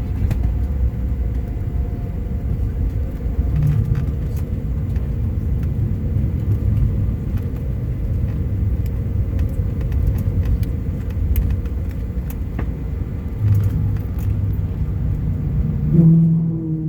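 Cabin noise aboard a Bombardier CRJ900 rolling on the ground after landing: a steady low rumble from the rear-mounted General Electric CF34 jet engines and the wheels, with a faint steady hum over it and scattered light clicks. Near the end a new low pitched tone comes in.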